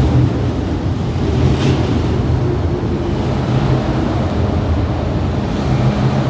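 MTR M-Train electric multiple unit running along the track, a steady loud rumble of wheels on rails with a low hum from the traction motors.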